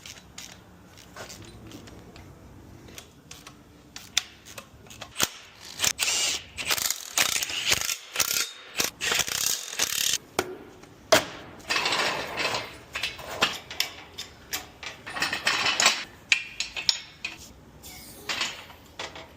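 Hand ratchet wrench clicking in repeated bursts of quick strokes as bolts are run in, starting a few seconds in.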